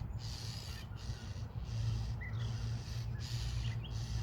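Songbirds giving a rapid run of harsh, rasping alarm calls, about one and a half a second, mobbing a predator (taken for a weasel) at their nest.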